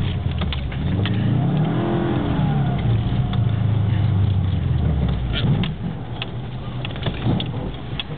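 Car engine revving hard in snow-drifting runs, its pitch climbing and falling, then easing off to a lower, quieter drone about five and a half seconds in. Scattered sharp clicks run through it.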